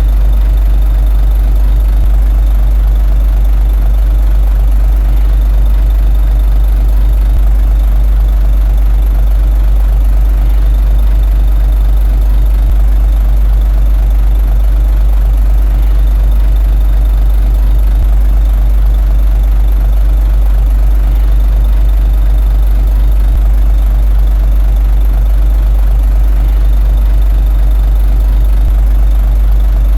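Komatsu D21A bulldozer's diesel engine running with a steady low drone, with no change in engine speed.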